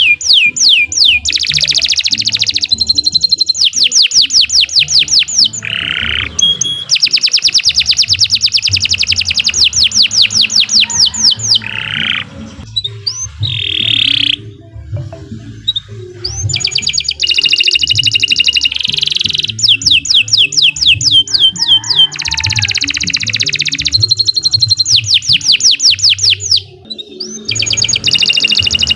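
Domestic canary singing a long song of fast trills and rolls: rapid strings of repeated high notes, each phrase running several seconds, with a few brief pauses between phrases.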